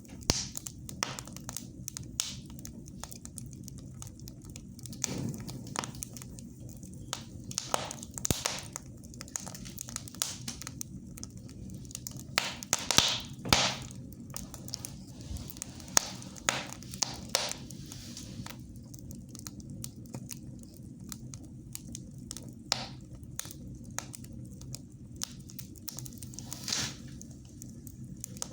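Wood fire burning in a fireplace: irregular sharp crackles and pops, with a few longer bursts of hiss, over a steady low rumble.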